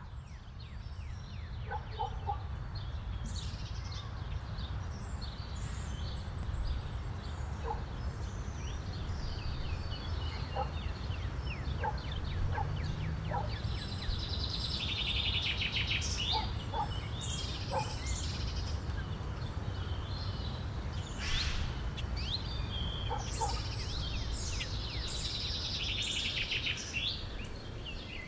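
Many birds chirping and trilling, with scattered short lower calls, over a steady low rumble.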